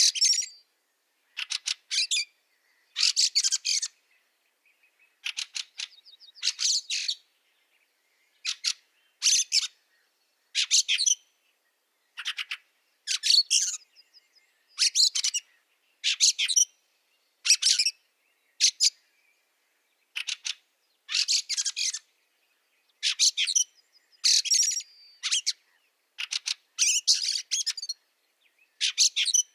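Fieldfare calling: repeated chattering 'chack-chack' calls in short bursts, about one burst a second.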